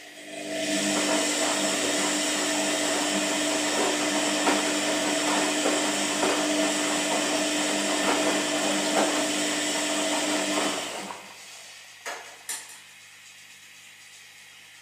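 Washing machine running: a loud steady motor hum and whir that starts suddenly and dies away about eleven seconds in, leaving a faint hum with two clicks.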